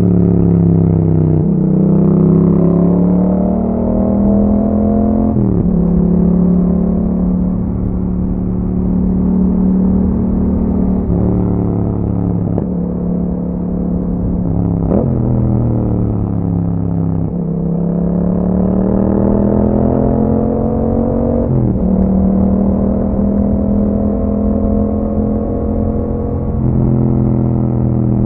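Yamaha MT-07's 689 cc parallel-twin engine, breathing through an aftermarket Akrapovič exhaust, under way on the road. The engine note climbs with the revs over a few seconds and then drops sharply at each gear change, several times over, with a stretch where the pitch slowly falls as the throttle eases off.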